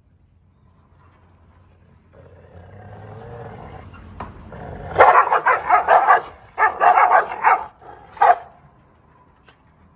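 A dog growls, then breaks into rapid, loud barking in three quick bursts about halfway through.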